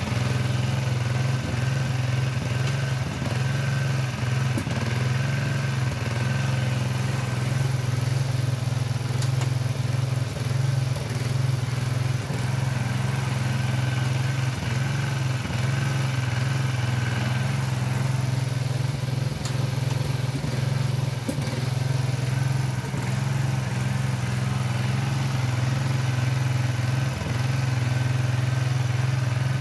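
Small engine of a Craftsman garden tractor running steadily at a constant speed, with a low, even hum.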